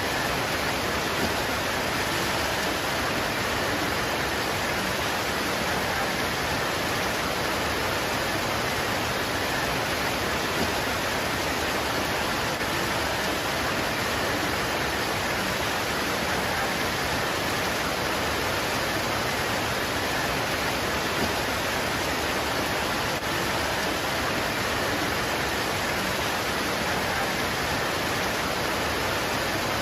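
Steady heavy rain pouring onto leaves, an even unbroken hiss with no pauses.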